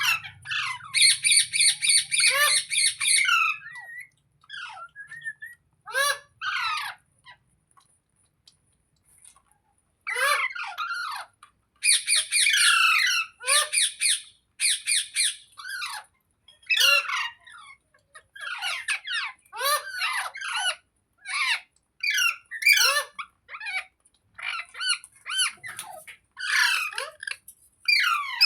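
A rose-ringed (ringneck) parakeet squawking: harsh, screechy calls in quick runs of a second or two, with short pauses between them.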